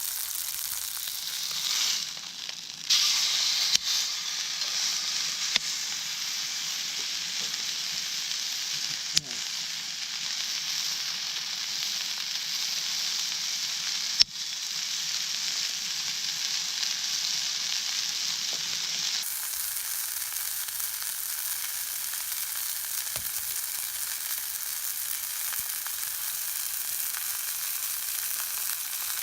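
Fillet steak sizzling steadily in a skillet over a campfire, with a few sharp clicks in the first half.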